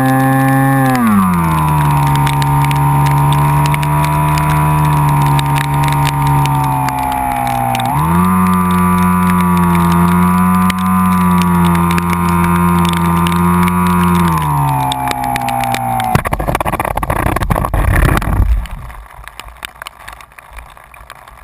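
A vehicle engine running steadily. The revs drop about a second in, rise around eight seconds and drop again around fourteen seconds. Then come a couple of seconds of loud rushing noise, after which the engine sound stops and it goes much quieter.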